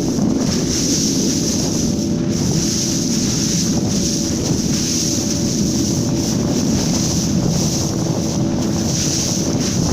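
Wind buffeting the microphone aboard a ship at sea, over the rush of water along the hull and a steady engine hum.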